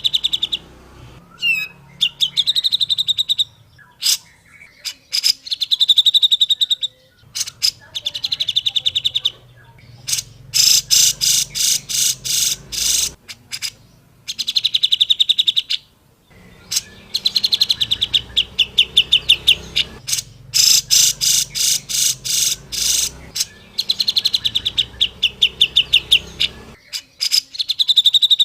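Grey-cheeked bulbul (cucak jenggot) singing: repeated phrases of rapid, chattering notes, each lasting a second or two, with short pauses between them.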